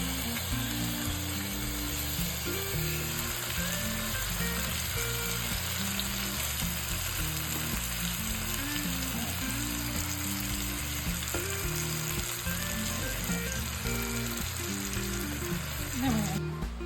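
Food sizzling as it fries in a pan, a steady hiss, over background music with a stepping bass line; the sizzling cuts off near the end.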